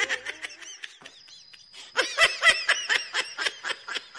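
High-pitched laughter in a rapid string of short pulses. It pauses about a second in and comes back denser and louder from about two seconds in, with a thin steady high tone underneath.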